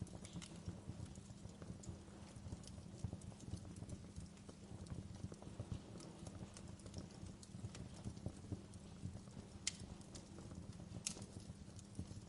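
Wood fire burning in a fireplace: a faint low rumble of the flames with scattered crackles and a couple of louder pops near the end.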